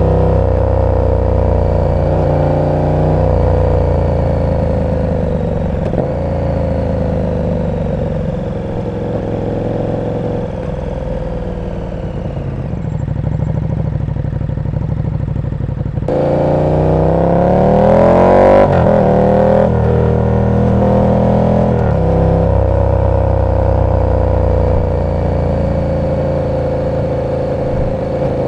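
KTM 1290 Super Duke R's V-twin engine through an aftermarket exhaust, running at low, steady revs. About sixteen seconds in, the revs climb sharply for a couple of seconds to the loudest moment, then drop back, and the engine settles into steady low-rev running again.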